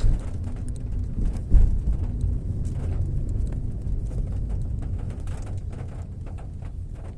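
Fairly heavy rain, with many drips and taps striking nearby surfaces over a deep low rumble. A louder knock comes about one and a half seconds in.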